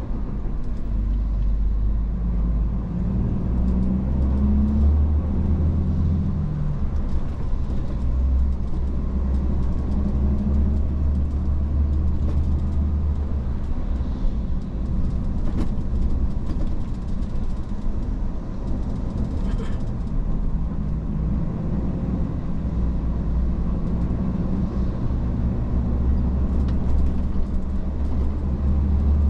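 Iveco S-Way truck's diesel engine and road noise heard from inside the cab while driving: a steady low drone whose pitch shifts slightly now and then.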